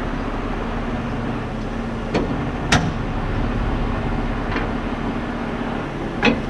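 Tow truck engine running steadily, with four sharp metal clanks from handling the underlift's tow fork, the loudest a little under three seconds in.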